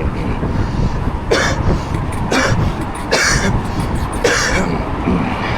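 A man coughing, four short, rough coughs about a second apart, a persistent cough that he finds annoying.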